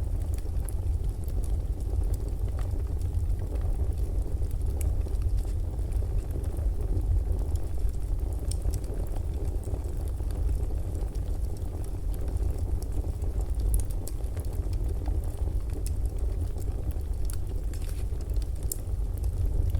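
Fire crackling in a fireplace: a steady low rumble and hiss with scattered small sharp pops and snaps.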